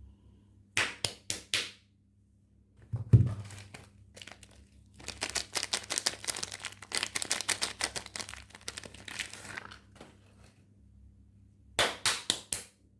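Soap packaging crinkling and tearing as soaps are unwrapped: a few sharp crackles, a dull thump about three seconds in, then several seconds of dense crinkling, and a short run of crackles near the end.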